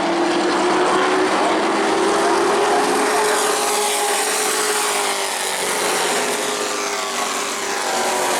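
Several racing truck engines running hard together on the oval. The pitch climbs slightly over the first few seconds and then eases down as the trucks pass and pull away.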